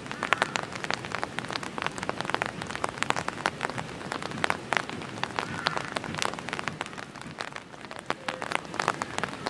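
Steady rain, with many close raindrops striking a surface in an irregular patter of sharp ticks over the hiss of the rainfall.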